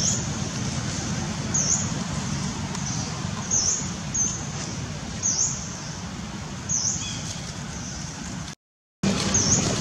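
A bird repeating a short, high chirp about every second and a half over a steady low rumble of outdoor background noise. The sound cuts out for a moment near the end.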